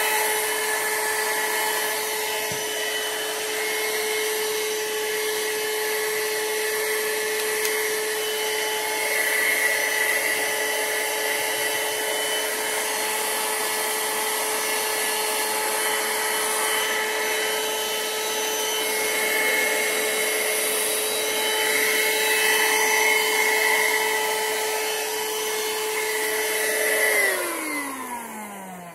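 BLACK+DECKER Dustbuster cordless handheld vacuum running with a steady whine that swells a little now and then. Near the end it is switched off and the motor winds down, its pitch falling as it fades.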